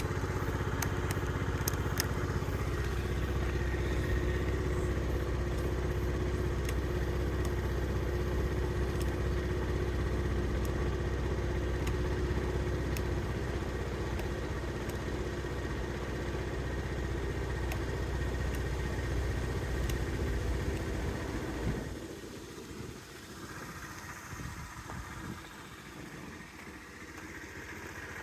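Honda Today AF61 50cc four-stroke scooter engine idling steadily. About three-quarters of the way through, the steady engine sound drops away abruptly and what remains is quieter and uneven.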